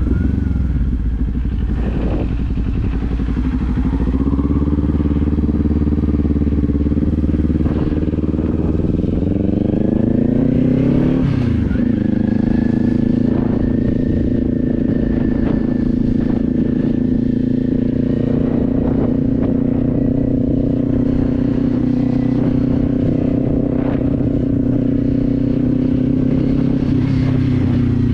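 Kawasaki Z400's parallel-twin engine under way: its pitch climbs as the bike accelerates, drops sharply with an upshift about eleven seconds in, then holds a steady cruising note.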